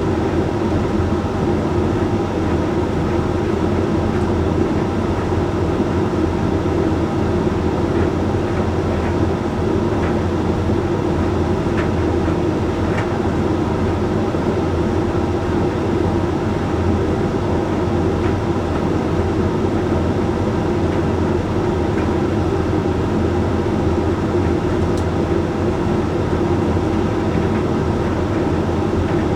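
Hoover Link X Care HLX C10DRGR condenser tumble dryer running mid-way through a Whites cycle: a steady hum and rumble of the turning drum and fan, with a few faint ticks.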